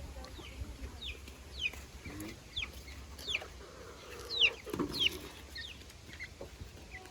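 Chickens calling: a run of short, high peeping calls, each falling in pitch, about two a second, with one louder squawk a little past the middle.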